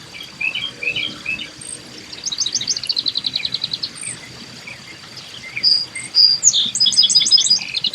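Backyard songbirds calling: a few short chirps, then a rapid, even trill about two seconds in, and more chirps with another trill near the end. A faint steady high tone runs underneath, typical of an insect.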